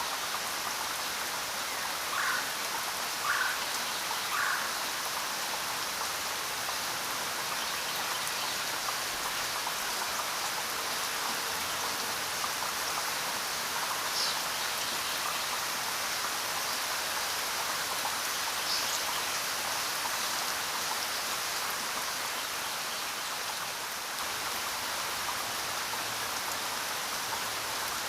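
Steady rain falling, an even hiss of drops, with three short chirps a few seconds in.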